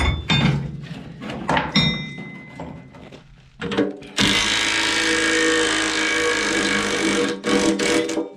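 Metal tools knocking and clinking, one strike ringing, then a power tool runs steadily for about three seconds and is given a few short bursts near the end.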